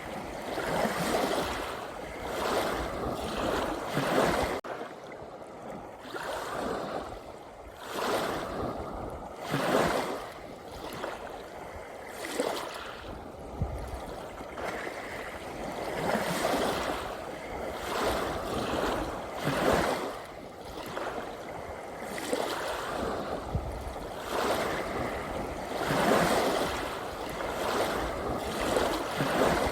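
Ocean waves washing and splashing in irregular surges every few seconds.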